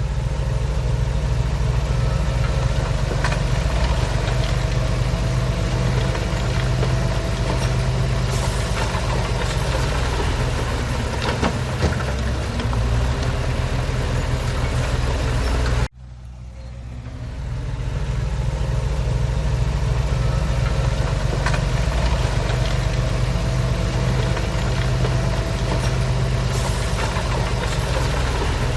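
Heavy diesel engine of earthmoving machinery running steadily with a low rumble. About halfway through, the sound cuts out abruptly and fades back in over a couple of seconds.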